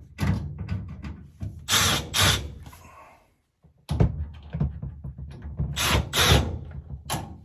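Power drill-driver backing out screws from a dryer's sheet-metal panel. Two runs of about three seconds each, with a short pause between them, and a few sharp rattles in each run.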